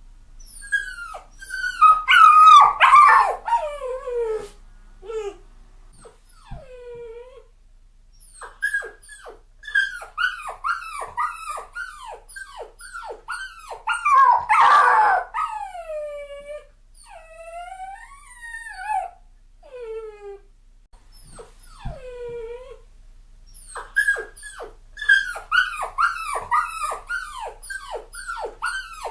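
Puppy crying: a long string of short, high-pitched whimpers and yelps that fall in pitch. There are louder, drawn-out cries about two to three seconds in and again around the middle.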